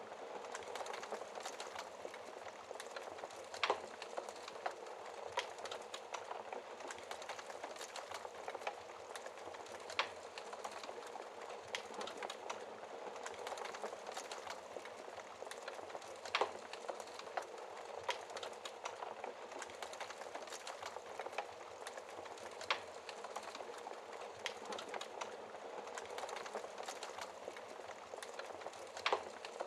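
Wood fire crackling in a fireplace: a steady hiss full of small snaps, with a louder pop about every six seconds.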